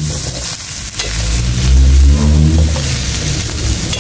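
Chicken frying and sizzling in a hot pan while it is stirred, with a steady hiss and a low rumble that swells about two seconds in.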